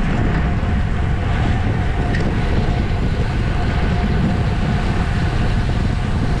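Steady wind rush and road noise from a bicycle ridden at racing speed in a criterium, heavy and low on the microphone, with a faint steady tone running under it.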